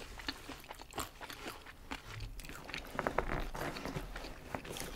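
Crunchy chewing and biting of batter-fried shrimp: a run of small irregular crunches and clicks, thicker and louder about three seconds in.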